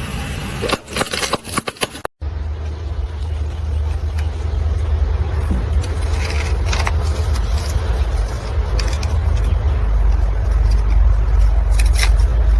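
A car's tyre rolling over and crushing objects: a quick run of sharp cracks and crunches, then, after an abrupt cut, a steady low rumble of the car with scattered cracks.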